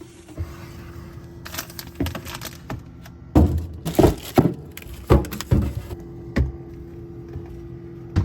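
A series of sharp knocks and clunks from household items being moved about and set down while a cupboard is cleared out, over a steady low hum.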